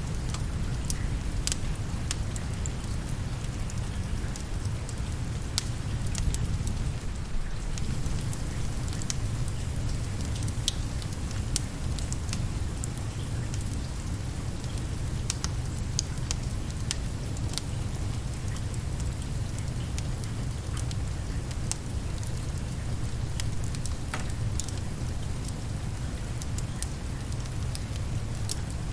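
Steady rain and a crackling wood fire: an even hiss with a deep low rumble underneath, broken by scattered sharp pops and crackles.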